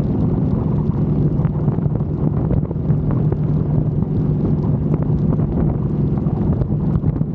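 Harley-Davidson V-twin motorcycle running steadily at road speed, with heavy wind buffeting the microphone.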